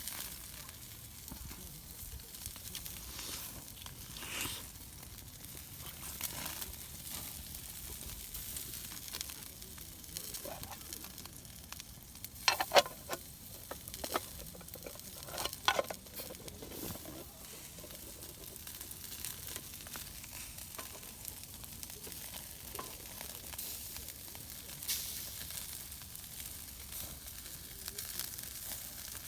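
Food sizzling as it cooks over a campfire: a steady frying hiss with scattered crackles, and a few sharp pops or clicks about halfway through.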